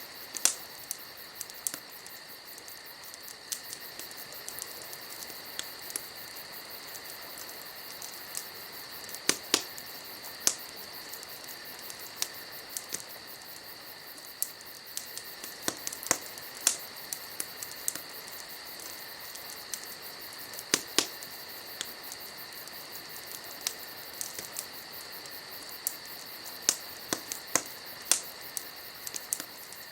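Wood fire crackling with irregular sharp pops, a few much louder than the rest, over a steady high chirring of crickets.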